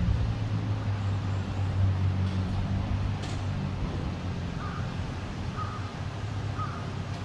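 A bird calls three times in the second half, about a second apart, over the steady low hum of a motor vehicle's engine.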